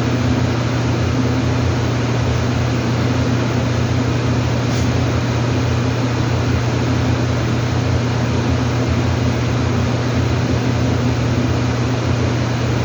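A steady, loud machine hum with a constant hiss over it, unchanging throughout.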